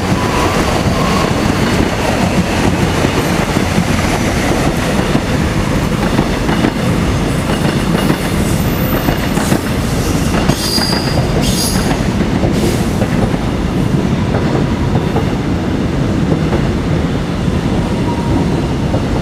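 Korail passenger train running past on curved track: a loud, steady rumble of wheels on rails, with brief high wheel squeals from the curve about halfway through.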